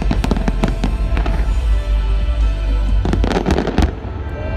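Fireworks shells bursting and crackling over loud show music, with a dense salvo of crackles about three seconds in that dies away just before the end.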